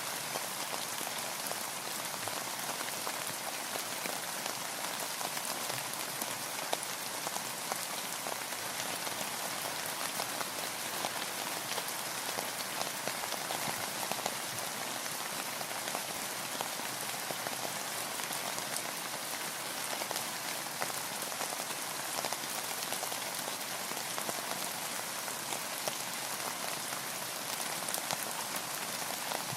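Steady rain: an even hiss with a dense patter of individual drops ticking throughout, without letting up.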